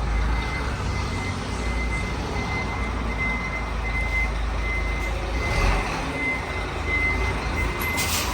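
Fire truck's engine running with its reversing alarm beeping over and over at one high pitch. A short hiss of air near the end.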